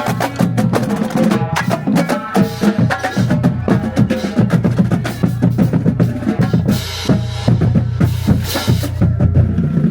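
Marching band playing, drums beating a steady rhythm under sustained brass-like tones.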